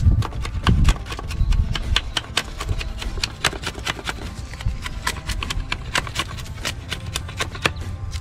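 Knife whittling a wooden stick: a quick, irregular run of short scraping strokes, a few a second.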